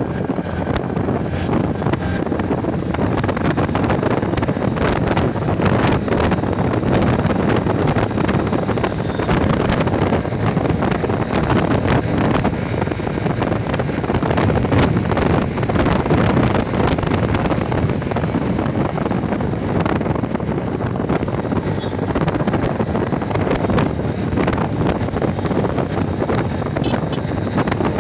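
Steady wind rushing over the microphone of a moving motorcycle, an even noise that stays loud throughout, with the ride's road and engine noise mixed in.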